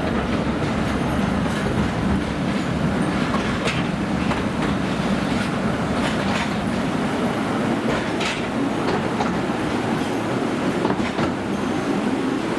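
Narrow-gauge forest railway train running steadily, heard from on board: a low rumble of wheels on rail with scattered irregular clicks over the track.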